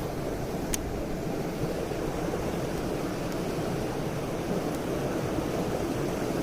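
Mountain stream rushing steadily over rocks, a deep, even wash of water, with one small click a little under a second in.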